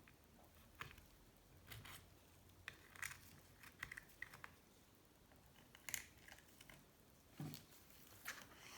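Faint, scattered clicks and short scrapes of small engine parts and tools being handled and set down, with the sharpest click about six seconds in.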